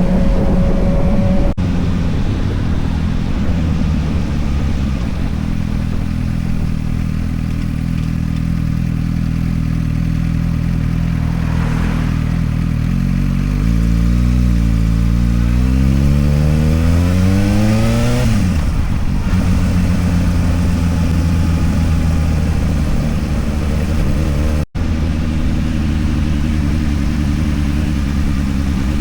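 Motorcycle engine running on the move, mostly at steady revs, with one long climb in revs about halfway through that drops off sharply at a gear change.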